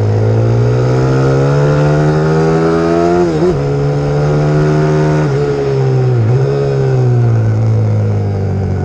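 Pit bike's YX150 single-cylinder four-stroke engine under hard acceleration. Its pitch climbs for about three seconds, drops sharply with a gear change, then holds, with another brief dip about six seconds in before it slowly eases off.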